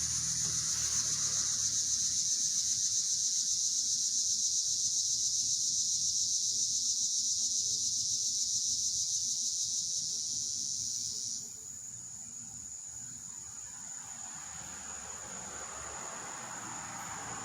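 High-pitched insect buzzing with a fast pulse. The loudest buzz cuts off suddenly about eleven seconds in, leaving fainter, steady high trills.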